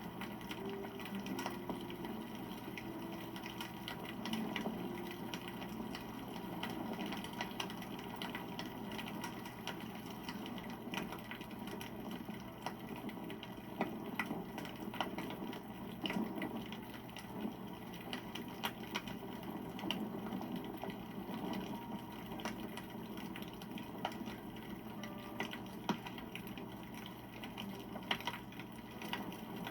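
Wood campfire burning, crackling steadily with frequent irregular sharp pops.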